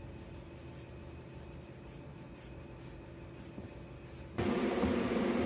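Faint rubbing strokes, then about four seconds in a TIG welding arc strikes on the cast-iron exhaust manifold: a sudden, steady buzzing hiss as the torch begins heating the metal without filler rod.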